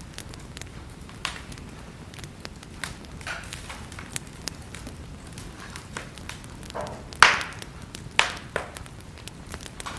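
Wood fire in a fireplace crackling, a steady low hiss broken by many small sharp snaps, with two louder pops about seven and eight seconds in.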